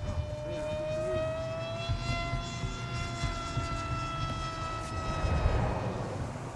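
Radio-controlled model airplane flying past, its motor giving a high, steady whine that rises a little in pitch, then slowly drops and fades as it passes. Wind rumbles on the microphone underneath.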